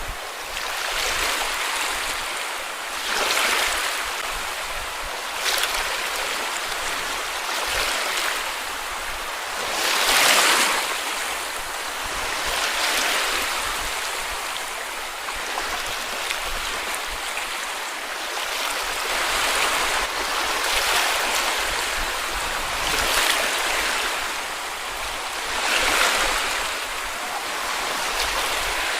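Small sea waves breaking and washing on a beach, with a constant wash of surf and a louder swell every few seconds, the biggest about ten seconds in.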